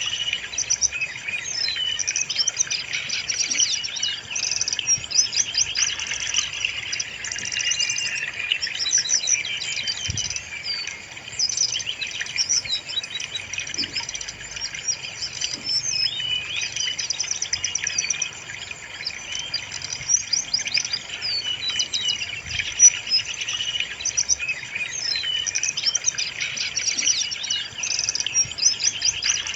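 Brown-chested jungle flycatcher song: a continuous, busy stream of fast chirps, trills and whistled phrases, several phrases overlapping at once.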